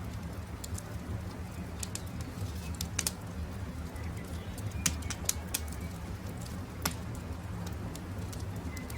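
Campfire crackling: scattered sharp pops and snaps over a steady low rumble of the burning wood, the loudest pops about three, five and seven seconds in. Faint birdsong sounds behind it.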